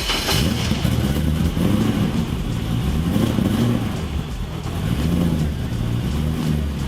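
Car engine running just after start-up, blipped several times so its pitch rises and falls, heard through an exhaust that still has its catalytic converters and mufflers.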